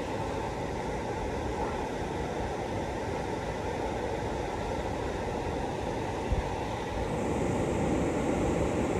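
Steady rushing of a whitewater river, with one brief knock about six seconds in.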